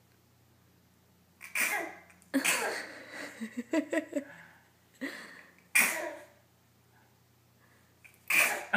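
An 8-month-old baby sneezing over and over, about five short, sharp bursts one to three seconds apart.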